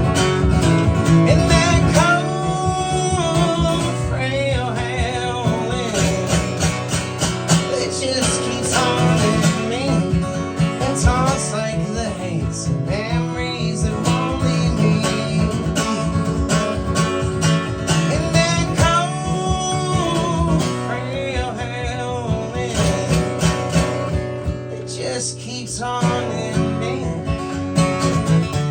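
Live country-style acoustic band music: strummed acoustic guitar under a sung melody.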